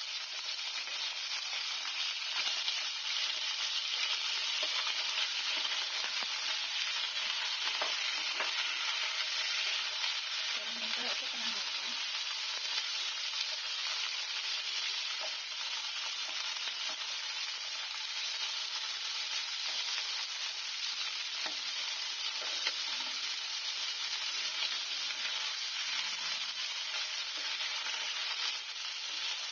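Chicken wings sizzling in hot oil in a nonstick frying pan: a steady frying hiss, with occasional light scrapes and taps of a slotted spatula turning them.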